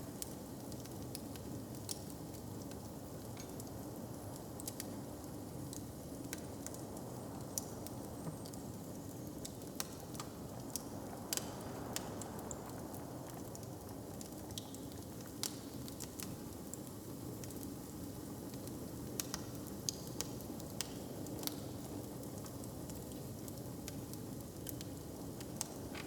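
Fire crackling, with sharp pops and snaps at irregular times over a steady low rumble.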